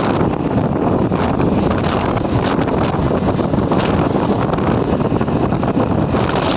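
Loud, steady wind buffeting the microphone on a moving bike, a dense rush with a low rumble.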